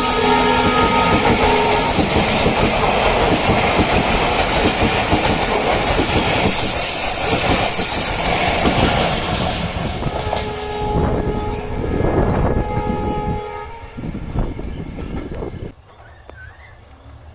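A Bangladesh Railway train passing close by with its wheels clattering over the rail joints. Its horn sounds at the start and again briefly about ten seconds in. The sound drops sharply near the end.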